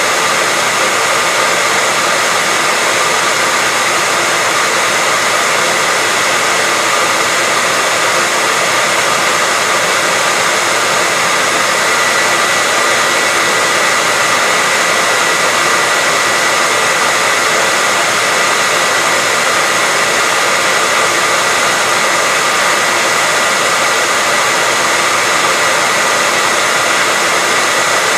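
Hair dryer running steadily: an even blowing rush with a constant high whine, unchanging throughout.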